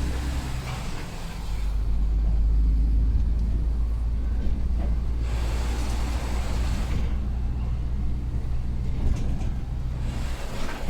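Heavy truck's diesel engine running with a steady low drone while driving, heard from the cab. Three short rushes of hiss come and go over it: near the start, in the middle and near the end.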